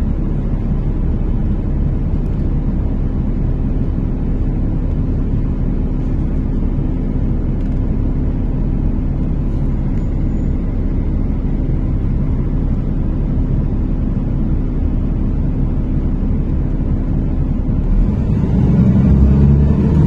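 NefAZ-5299 city bus heard from inside the cabin: the diesel engine running with a steady low rumble and road noise. Near the end, louder low tones swell up over it.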